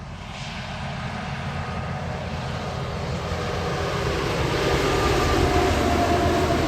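A heavy truck approaching on a wet road: its engine and the hiss of its tyres through water grow steadily louder.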